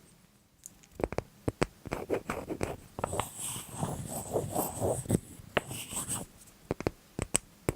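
Close-miked handling sounds: a run of sharp little clicks and taps, with scratchy rustling in the middle stretch.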